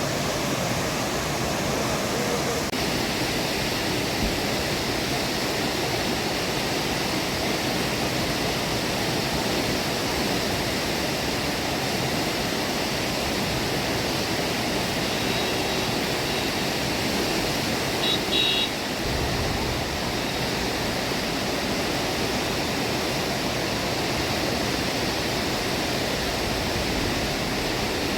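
Steady rushing of the swollen Chenab river in flood, fast water flowing hard after heavy rain. A few brief high-pitched tones sound about halfway through.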